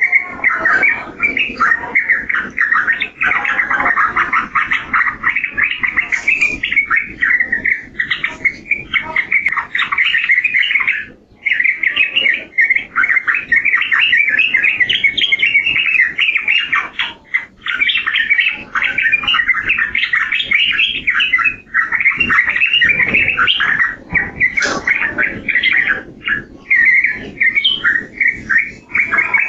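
Sooty-headed bulbul (trucukan) singing in a fast, unbroken chatter of short chirping notes, with brief pauses about eleven seconds in and again around seventeen seconds.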